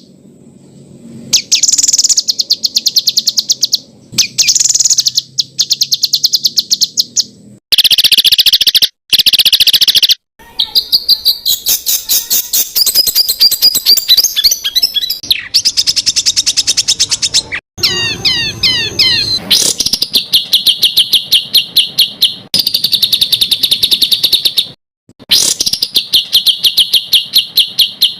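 Songbird masteran material: loud, high-pitched runs of very fast repeated sharp notes ('tembakan'), spliced from several recordings with abrupt cuts between segments, and a quick series of falling notes near the middle.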